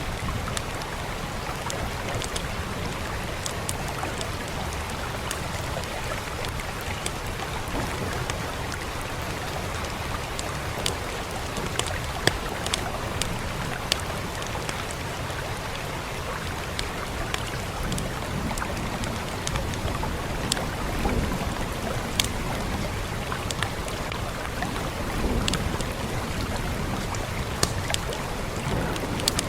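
Steady rain with the irregular sharp pops and crackles of a fireplace fire scattered through it.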